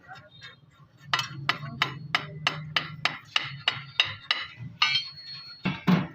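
Hammer striking metal in a quick, even series of blows, about three a second, each with a short metallic ring. The blows start about a second in.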